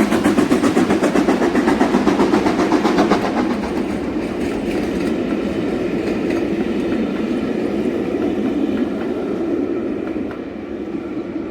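Steam-hauled passenger train running past on the rails: a quick, even rhythmic pulsing for about the first three seconds, then a steady rumble of the coaches that fades near the end.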